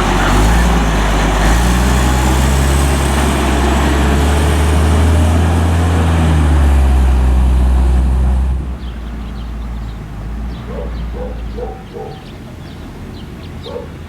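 Autocar front-load garbage truck's diesel engine running loud, its pitch rising and falling, then stopping abruptly about eight and a half seconds in. Birds chirp after it.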